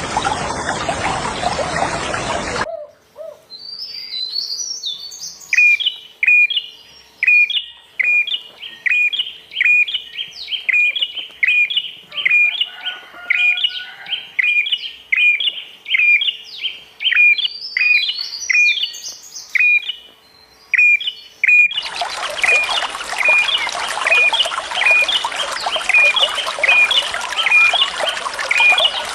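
A bird calling over and over, short sharp notes about twice a second, with other bird chirps around it. Running water rushes at the start, stops abruptly after about three seconds, and comes back about three-quarters of the way through, with the calls going on over it.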